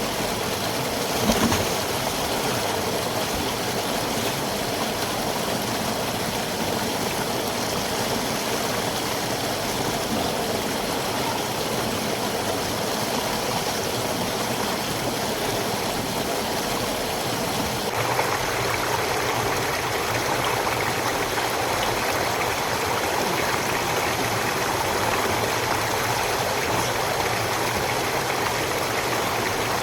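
River water running steadily over rocks, a continuous rushing. There is a brief knock about a second in. About two-thirds of the way through, the water sound shifts abruptly to a slightly louder, brighter rush.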